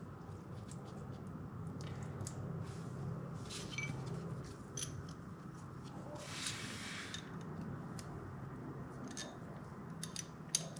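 Faint metallic clicks and scrapes of two steel nuts being threaded by hand onto an exhaust manifold stud, over a low steady hum.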